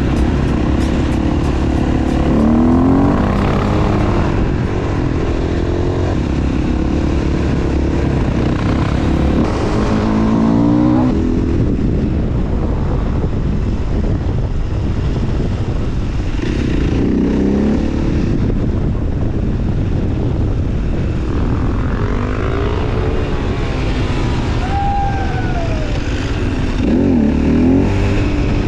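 Supermoto motorcycle engine under way, its pitch climbing and dropping again several times as it accelerates and shifts through the gears.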